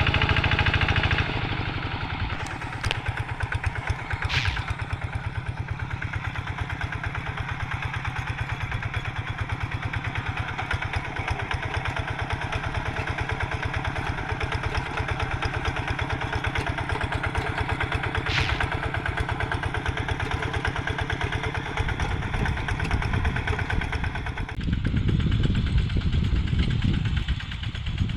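Diesel engine of a Quick G3000 two-wheel hand tractor running steadily under work, a rapid even firing beat. It is louder for the first second or so, settles, then grows louder and deeper again in the last few seconds as the load or throttle changes.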